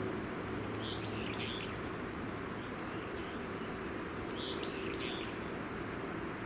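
A small bird chirps in two short runs of a few high notes, about three and a half seconds apart, over a steady low outdoor hum.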